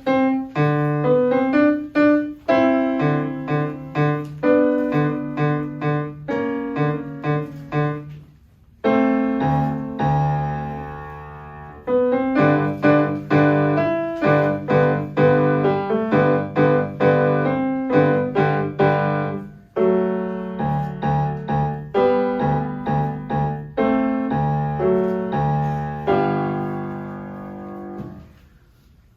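Solo piano playing a rhythmic piece of repeated chords, with a short break about eight seconds in and a final chord left to ring and die away near the end.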